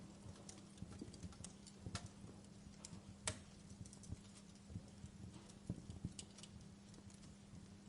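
Wood fire crackling in a fireplace: burning logs giving off irregular small pops and snaps, with one sharper pop a little over three seconds in, over a faint steady low hum.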